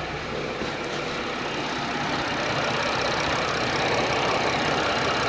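Chevy 3.6 V6 idling at operating temperature on a freshly replaced thermostat, with its electric radiator cooling fans running; the steady whooshing hum slowly grows louder.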